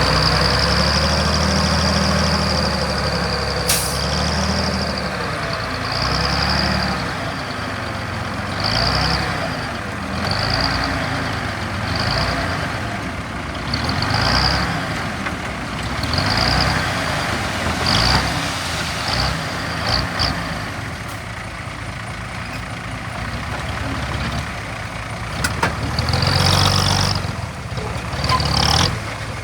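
Diesel engines of heavy earthmoving machinery running under load, with a high squeal that holds steady for the first few seconds and then comes back as short squeals every second or two.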